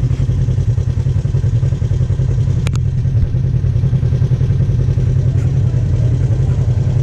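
Off-road vehicle engine running steadily at low revs, with two sharp clicks close together about two and a half seconds in.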